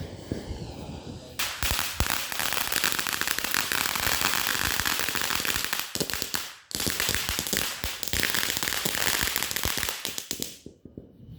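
Ground firework crackling: a dense, rapid run of small pops that starts about a second and a half in, breaks off for a moment past the middle, then picks up again and stops shortly before the end.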